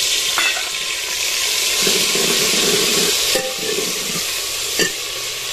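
Chopped tomatoes and green chillies sizzling loudly as they fry in hot ghee in a metal pot, with a metal ladle stirring and clinking against the pot a few times, the sharpest clink near the end.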